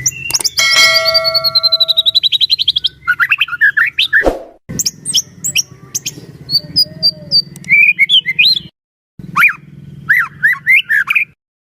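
White-rumped shama singing a loud, varied song of whistled notes, fast trills and rapid chattering phrases over a faint low hum. It cuts out abruptly twice.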